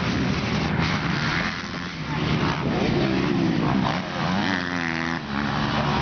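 Motocross bikes' small two-stroke engines running hard on the track. The pitch keeps rising and falling as the riders rev through the gears and back off.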